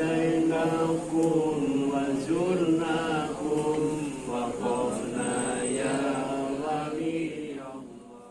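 A group of voices chanting a devotional Islamic prayer (dhikr) together in a sustained, melodic recitation. The chant fades away near the end.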